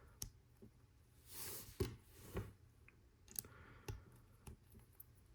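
Faint, scattered clicks of Lego Technic plastic pieces being handled and fitted together, with a short rustle about a second and a half in.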